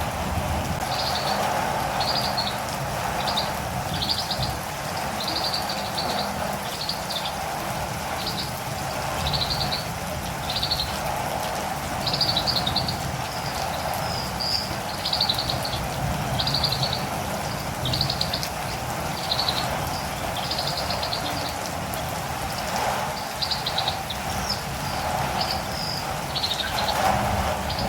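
A catirumbava bird calling in a long run of short, high chirps, about one a second, over a steady hiss of rain.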